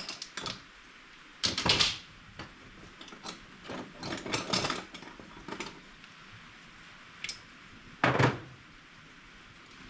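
Metal hand tools, a socket wrench and its sockets, clinking and clattering in several short bursts a few seconds apart, with scattered clicks in between.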